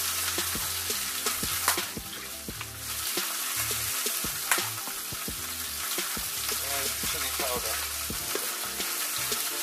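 Steady sizzling of food frying in a pan, full of small crackles, with the rattle of red pepper flakes being shaken from a spice shaker and two sharper clicks, about two and four and a half seconds in.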